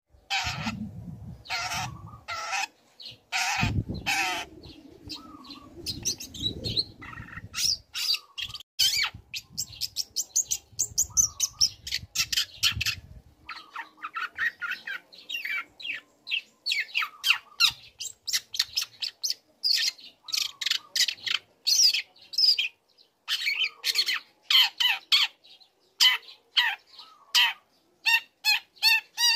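Young long-tailed shrike in full song: a rapid, unbroken run of harsh scratchy chattering calls mixed with short whistled notes. A low rumble runs under the first half and stops about halfway through.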